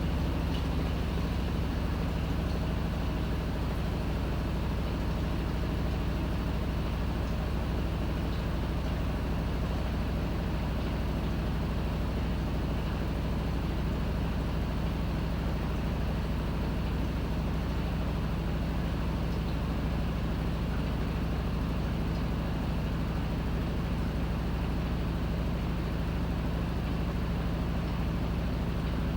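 Panasonic NA-FA100H9 top-loading washing machine running through its cycle: a steady, unbroken low motor hum with even noise over it.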